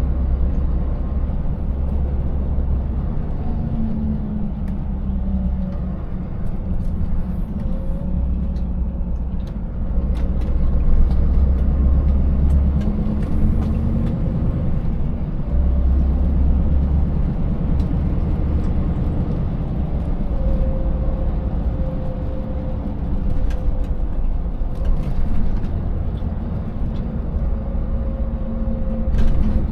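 Scania 590S 16-litre V8 diesel engine pulling steadily under way, a deep rumble whose pitch drifts slightly up and down, with road noise and a few light knocks.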